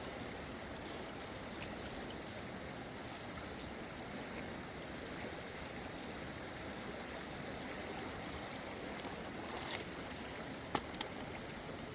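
Stream or mountain river flowing: a steady rush of water, with a few short clicks near the end.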